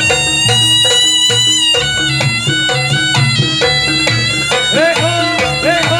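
Traditional Javanese barongan accompaniment: a shrill reed wind instrument plays a held, sliding melody over gamelan-style percussion.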